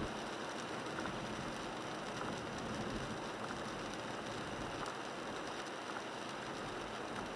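Steady hiss of rain and tyres on a wet road heard from inside the cab of a moving 1998 Toyota 4Runner, with the windshield wipers sweeping.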